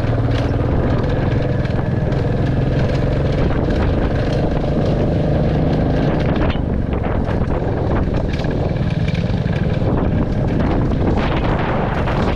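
Royal Enfield Classic 350's single-cylinder engine running steadily under way, with wind noise on the microphone; the sound shifts about six and a half seconds in.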